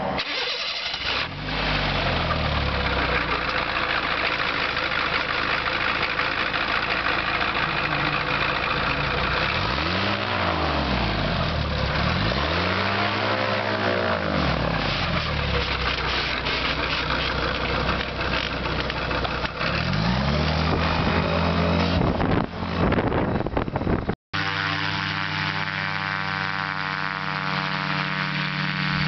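Ultralight aircraft's propeller engine starting about a second in, then running, with its pitch rising and falling several times as it is revved up and down. It cuts out briefly near the end and then runs steadily.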